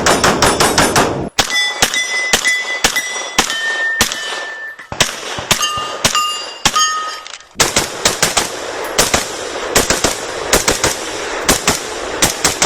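Rapid strings of gunshots, several a second, with struck steel targets ringing after many of the hits; the strings break off abruptly.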